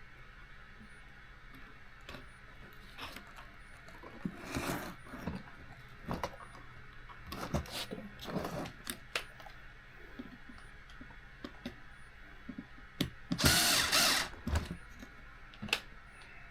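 Small electric screwdriver driving screws into a 1/18 RC car in several short runs, the loudest about three-quarters through, among light clicks and knocks of small parts being handled.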